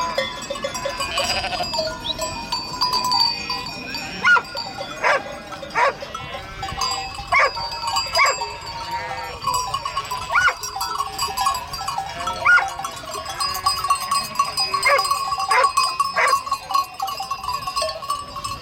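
A flock of sheep or goats bleating, many short calls overlapping and repeating.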